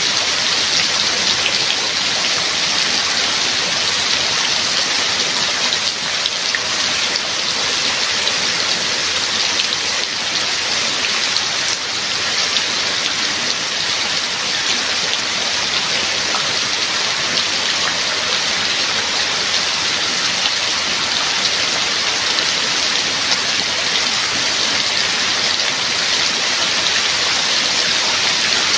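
Steady heavy rainfall, an even hiss of rain pouring down.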